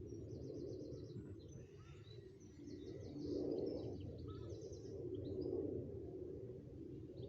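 Wild birds singing: several short, rapid high-pitched trills, over a steady low outdoor background rumble that swells and fades.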